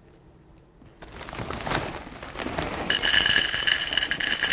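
Dry Chex Choco green-onion-flavour cereal pieces being poured into a bowl, a dense rattling patter that starts about a second in and grows louder, ringing off the bowl from about three seconds in.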